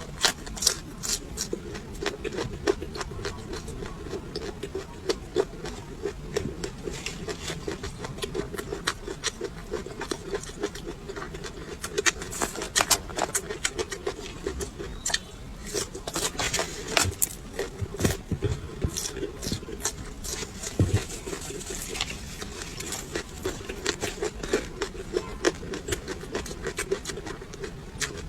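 Close-up chewing of raw chili peppers: crisp, irregular crunches and wet mouth clicks in quick succession, over a faint steady hum.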